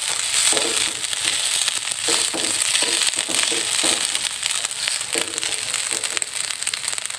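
Fried rice sizzling in a metal wok while a perforated metal spatula stirs it, with frequent scraping and clicking of the spatula against the pan.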